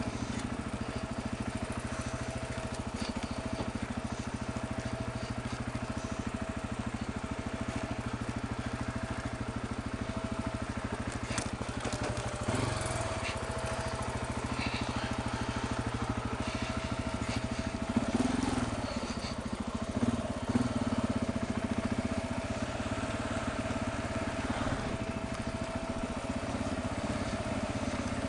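Motorcycle engine running steadily at low, even revs while the bike is ridden slowly, with a few short knocks about halfway through and again around two-thirds of the way in.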